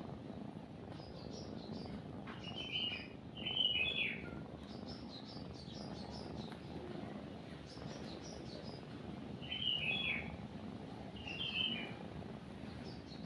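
Small songbirds chirping and singing in short repeated phrases, loudest about three seconds in and again around ten seconds in, over a steady low cat purr.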